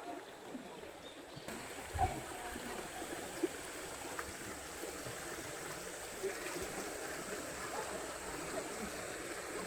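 Steady rush of running water, like a stream, setting in about a second and a half in, with a short low thud about two seconds in.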